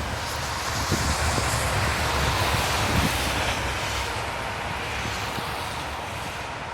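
Storm wind blowing steadily in a snowstorm, with low buffeting on the microphone, easing slightly near the end.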